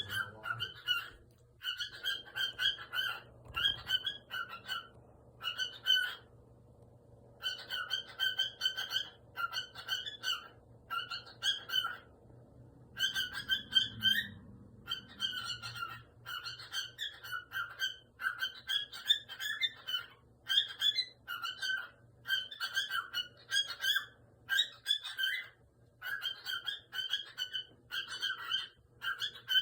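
Cockatiel vocalising in a long run of short whistled, chirping phrases, one after another, with a couple of brief pauses.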